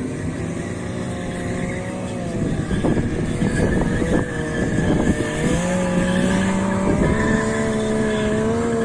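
Motor vehicle engine running, its pitch drifting slowly up and down, with a louder, rough stretch from about two and a half to five seconds in.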